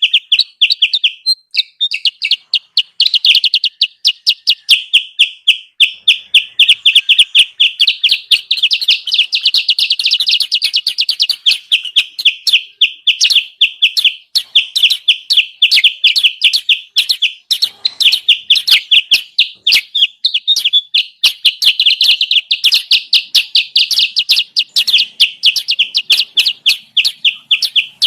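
Lure recording of kutilang sutra calls: rapid, continuous high chirping, several notes a second with no break.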